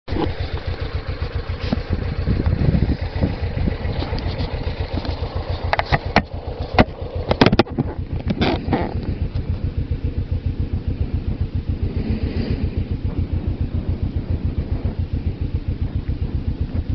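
Suzuki GS500F's air-cooled parallel-twin engine running steadily with an even pulsing beat, heard close to the bike. Several sharp clicks and knocks come through around the middle.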